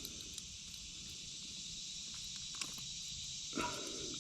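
Steady high-pitched insect chorus, with a few faint clicks and a short scuffle a little before the end.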